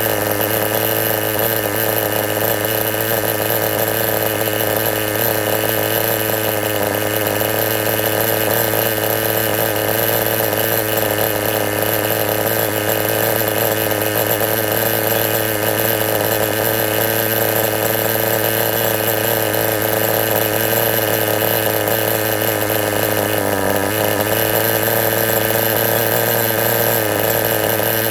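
RT4-GP engine running steadily with an even exhaust note after its settings have been tuned; the note sags briefly once, late on.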